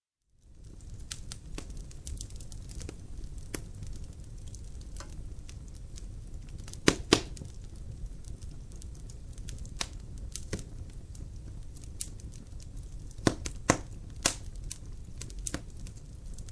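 Wood fire burning in a fireplace, crackling with scattered sharp pops over a low steady rumble. It starts abruptly from silence just after the beginning, and the loudest pops come as a quick pair about seven seconds in and a few more around thirteen to fourteen seconds.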